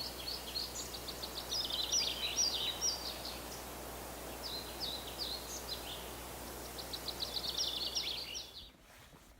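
A small songbird sings three phrases of quick, repeated high notes over a steady outdoor background hiss. The outdoor sound drops away abruptly shortly before the end.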